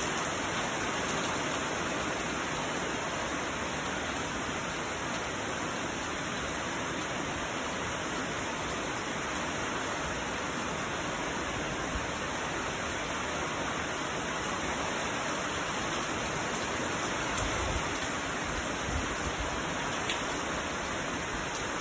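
Heavy rain pouring down steadily in an even hiss. Near the end, gusts of wind add irregular low rumbling bursts.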